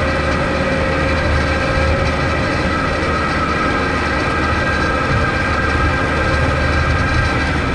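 Kubota MX5200 tractor's diesel engine running steadily, a low rumble with several steady whining tones above it.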